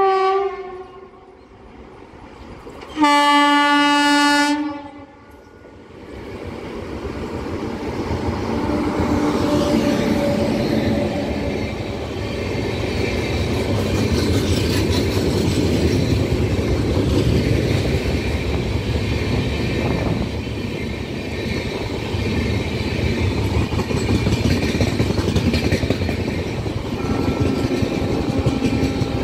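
A train horn gives a short toot, then a loud blast of about two seconds a few seconds in. The Paschim Superfast Express, a train of LHB passenger coaches, then comes up and runs past at speed, its wheels and coaches making a steady loud rolling rumble.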